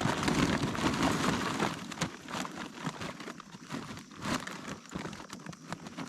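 Charcoal briquettes pouring out of a crinkling paper bag and clattering into a grill. The rustle and clatter are heaviest in the first two seconds, then thin to scattered clicks and crinkles.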